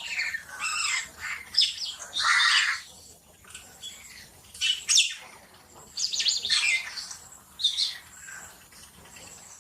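Myna calling in irregular bursts of chirps and harsh squawks, with a long harsh squawk about two seconds in and further clusters of calls around five, seven and eight seconds.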